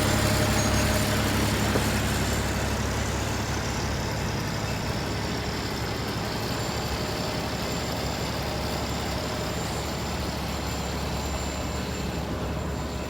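Heavy diesel truck engine idling steadily, slowly growing fainter.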